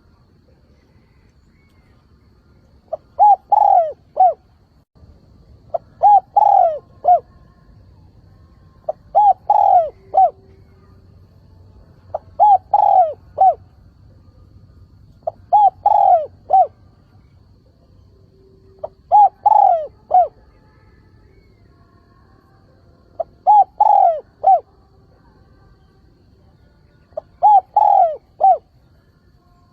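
Decoy spotted dove cooing its multi-note call over and over, one phrase every three to four seconds, about eight phrases starting a few seconds in. This is the calling song that is used to lure wild doves.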